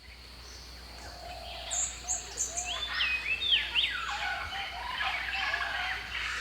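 Several birds calling together in tropical rainforest: whistled notes that glide up and down, short high chirps and lower arched calls, over a steady background hiss. The sound fades in over the first couple of seconds.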